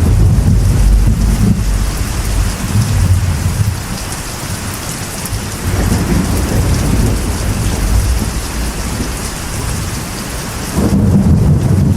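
Steady rain drumming on a metal roof with thunder rumbling underneath, the rumble swelling early on, again about halfway through, and once more near the end.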